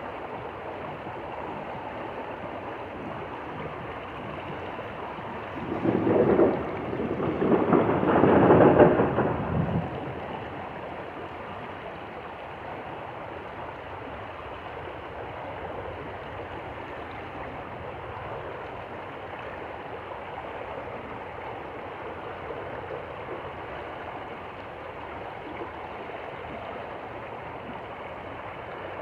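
Stream water flowing steadily. About six seconds in, a loud, low rumbling noise rises in two surges over about four seconds, then dies away and the stream carries on.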